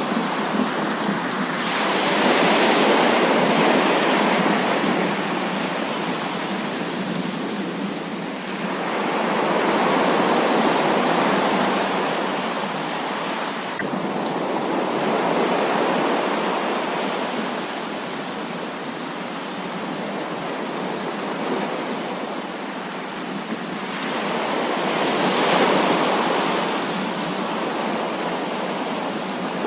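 Heavy rain falling steadily, its loudness swelling and easing in slow waves every several seconds.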